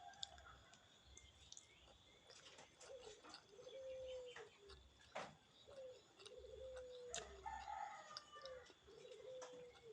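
A bird calling in the background: a low-pitched phrase of a short note and a longer, slightly falling note, repeated about every two seconds. Faint scattered clicks sound between the calls.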